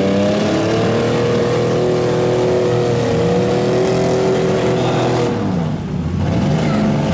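Several demolition derby vehicles' engines revving hard together. One engine climbs in pitch near the start and is held high, and the sound dips briefly just before the end.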